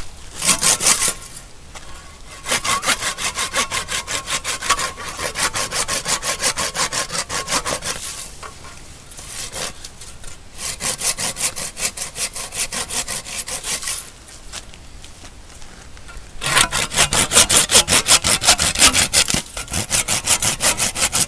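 Restored antique hand saw cutting through Christmas tree branches: quick, even back-and-forth strokes in about four bouts, with short pauses between them.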